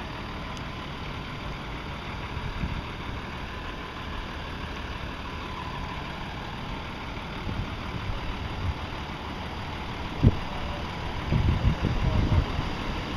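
Vehicle engine idling with a steady low rumble, broken by a sharp knock about ten seconds in and a short run of low thumps soon after.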